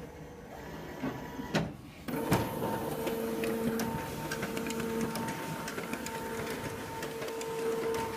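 Xerox WorkCentre 5745 copier clicking, then starting up about two seconds in and running steadily with a squeaking whine held on one pitch, the scanner squeak the machine is being recorded for.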